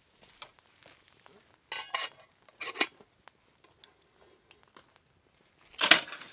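A metal utensil clinking against cookware in a few short clatters, one with a brief metallic ring, the loudest near the end.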